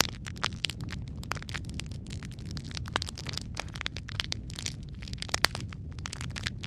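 Wood fire crackling: irregular sharp pops and snaps over a low steady rumble, with one louder pop a little after five seconds in.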